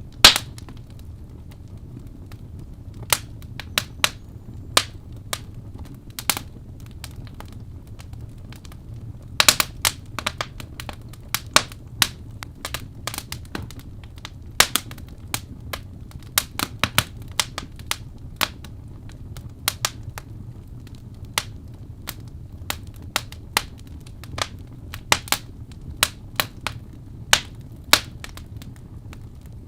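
Wood fire of burning logs crackling: frequent sharp, irregular pops and snaps over a steady low rumble of the flames, with a dense cluster of crackles about ten seconds in.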